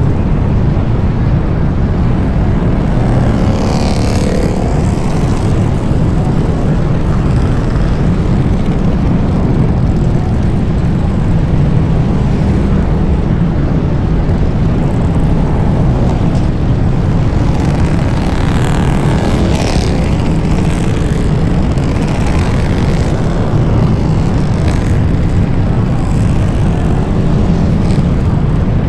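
Motorcycle engines running together in a steady, deep rumble, with pitch rising and falling as bikes rev or pass, about four seconds in and again around nineteen seconds.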